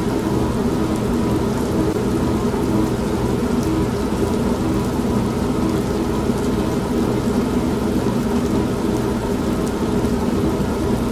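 An old manual washing machine running with a steady motor hum, mixed with steady heavy rain and a low thunder rumble.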